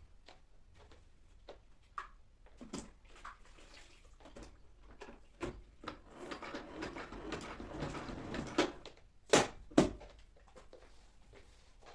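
Household cleaning and handling sounds: scattered light clicks and taps, a stretch of rustling in the middle, then two loud knocks in quick succession near the end.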